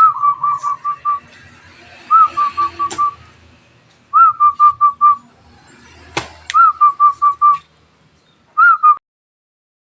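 Zebra dove (perkutut) cooing: five phrases about two seconds apart, each a rising-and-falling first note followed by a quick run of four to six short, even coos, the last phrase cut short. Two sharp knocks sound between the phrases.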